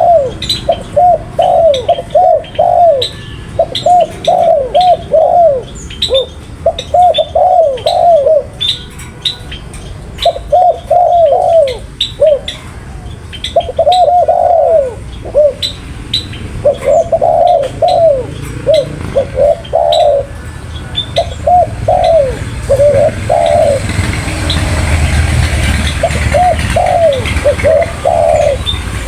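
Spotted dove cooing over and over in short phrases of several coos, with brief pauses between phrases. Small birds chirp faintly and high throughout. Near the end a rush of noise comes in briefly while the cooing stops.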